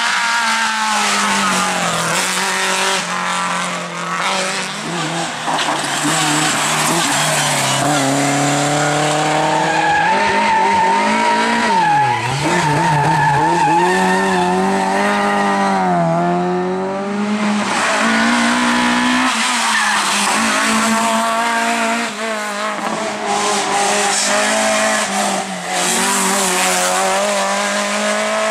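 Rally cars driven flat out on a sprint stage. The engines rev hard, their pitch climbing through the gears and dropping sharply on the lift-off and braking before corners, with tyres squealing and skidding.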